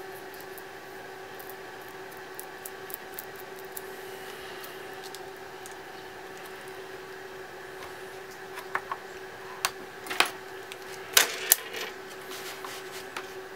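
A steady pitched hum from running bench equipment, with scattered light clicks and taps of small tools and parts on a workbench; sharper taps come in a cluster from about nine to twelve seconds in.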